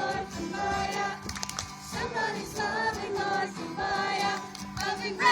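A large group of young people singing a worship song together, holding steady sung notes.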